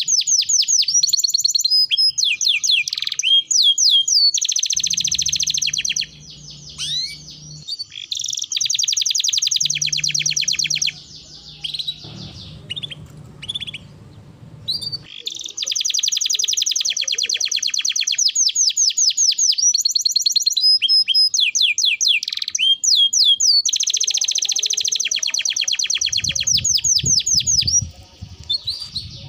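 Domestic canary singing in long, very fast trills of repeated high notes, phrase after phrase with short breaks between them. A faint low hum shows in some of the breaks.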